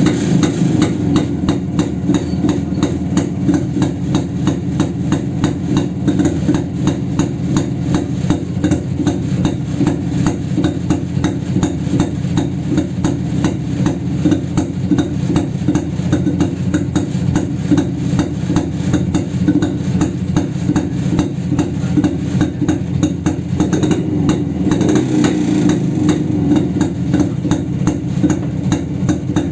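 1969 Jawa 250's two-stroke single-cylinder engine running steadily at a constant speed, a fast, even train of firing beats.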